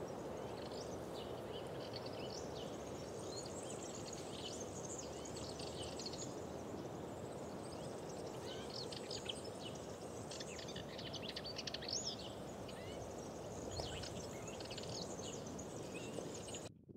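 Several small birds chirping and trilling over a steady, even background rush, with no voices. The sound cuts off abruptly just before the end.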